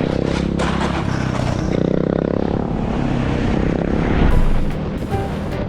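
Motorcycle engine running, its pitch rising and falling as the throttle is worked.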